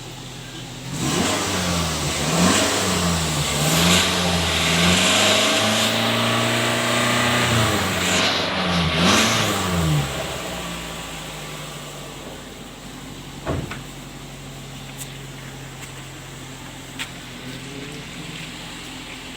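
Car engine revved through the stock exhaust: several quick blips up and down, then held high for a few seconds, before settling back to a steady idle about halfway through. A single sharp click comes later, over the idle.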